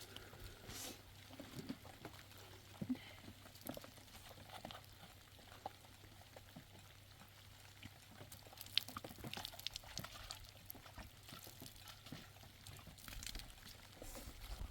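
Faint rain patter with scattered small drips and taps of water.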